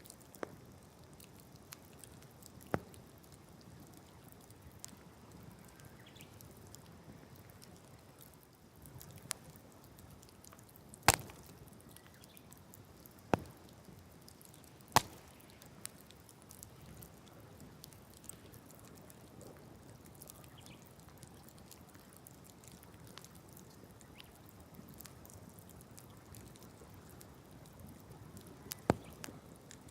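Wood campfire burning on open ground: a faint steady hiss with scattered sharp crackles and pops from the burning wood, the loudest a little after the ten-second mark.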